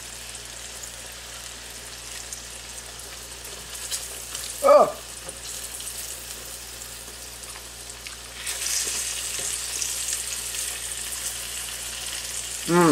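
Zucchini slices frying in a pan, a steady sizzle that grows louder about eight seconds in.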